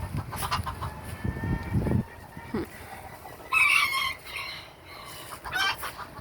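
Chickens calling, with two short, loud calls, one about three and a half seconds in and another near the end; some low rumbling in the first two seconds.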